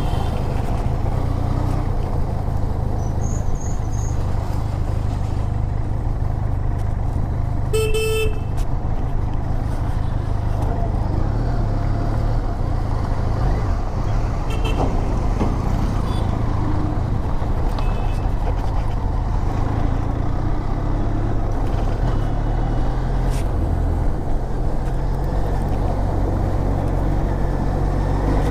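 Motorcycle riding at speed, its engine running steadily under a constant rush of road and wind noise. A short horn honk sounds about eight seconds in.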